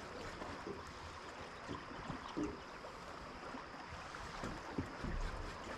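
River water flowing steadily, with a brief low rumble about five seconds in.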